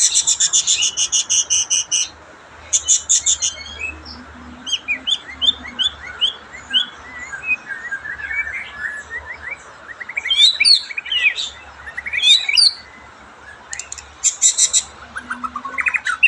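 White-rumped shama singing: harsh buzzy rattles near the start, around three seconds in and near the end, with runs of quick rising whistled notes and loud down-slurred whistles between them.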